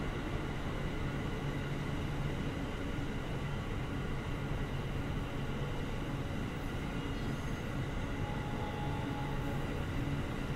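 Steady hum and rumble of a train, with a few steady tones, holding at an even level without the rise and fall of a passing train.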